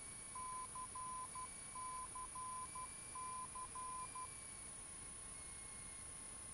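Faint Morse-code identifier from a navigation radio: a steady beep of about 1 kHz keyed as dash-dot-dash-dot three times ("C C C", the ident of the Calverton VOR) over steady radio hiss in the headset audio.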